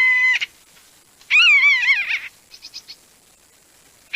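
Loud, drawn-out mewing animal calls, clear-pitched: a steady one that stops about half a second in, a wavering one after a second, and a falling one starting near the end, with a few faint short chirps between.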